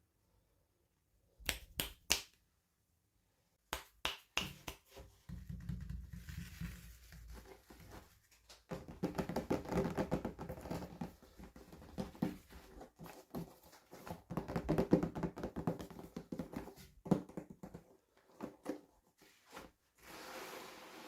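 Hands unboxing small toys and their packaging. A few sharp clicks come about a second and a half in, then a long run of tapping, clicking, rustling and scraping as the pieces and packaging are handled.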